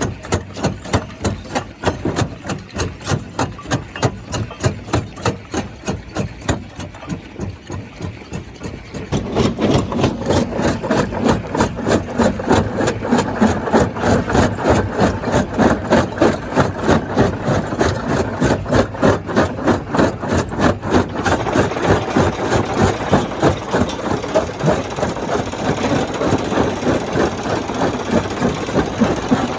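Stone crusher machinery running with a steady rhythmic knocking several times a second. About nine seconds in it grows louder and fuller.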